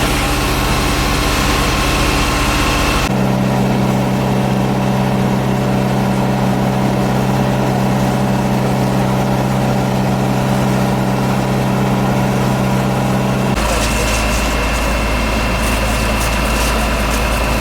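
A heavy engine idling steadily, its hum changing abruptly twice, about three seconds in and again near the end.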